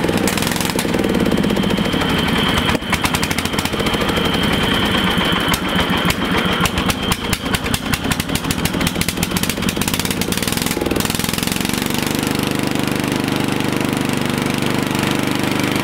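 A 16 hp cast-iron Briggs & Stratton engine running through an improvised exhaust pipe. Its speed sags, and from about three seconds in it runs unevenly with irregular popping and knocking for several seconds. Near the end it picks back up to a steady run.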